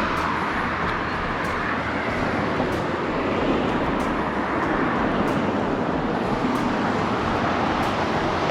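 Steady rushing noise of road traffic or a running vehicle, with no clear engine note.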